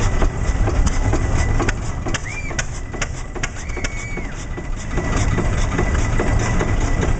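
Cummins oil engine running steadily with an even, repeating beat, dropping slightly in level for a few seconds in the middle.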